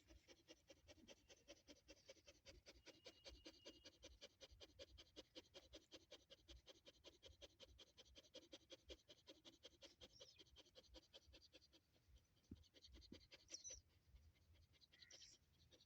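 Dog panting fast and evenly, about six breaths a second, stopping about twelve seconds in; a few faint clicks and a brief high squeak follow near the end.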